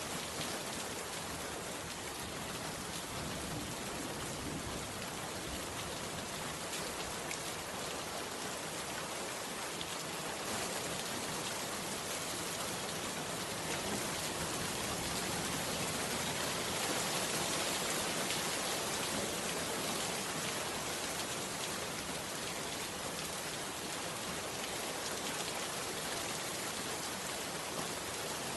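Steady rain hiss with no bird calls, swelling slightly about halfway through.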